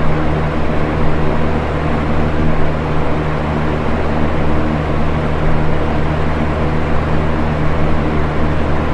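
Box fan running steadily: an even rush of air with a low motor hum beneath it.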